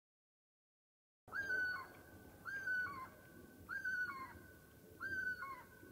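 A bird's call, repeated four times about a second apart: each is a held high note that drops to a lower one at its end, fairly faint.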